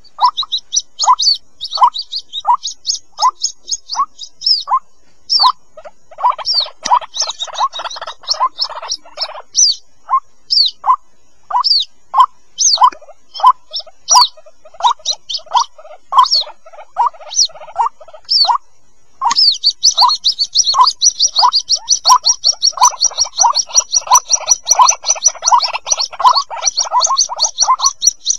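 White-breasted waterhen chicks calling: short notes repeated about one to two a second, mixed with high, thin peeps. The calls come in quick, dense runs about a quarter of the way in and again from about two-thirds of the way to the end, with a brief pause just before the second run.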